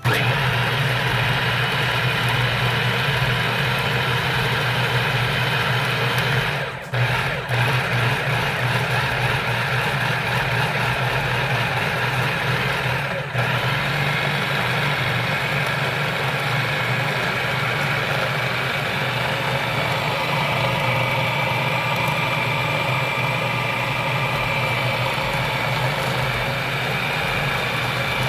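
Cuisinart 5-cup food processor running on high, its chopping blade grinding a cooked chicken, vegetable and rice mixture into a paste. The motor starts abruptly and runs steadily, dropping out briefly twice, about seven and thirteen seconds in.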